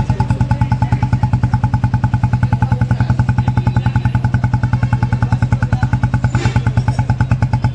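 Royal Enfield Classic 350 single-cylinder engine running steadily at idle through an aftermarket HK Indore silencer, giving an even, rapid thumping exhaust beat at constant speed.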